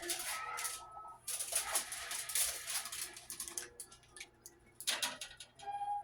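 Seasoned potatoes and onions being scraped out of a bowl into a pan, in irregular bursts of clatter and scraping.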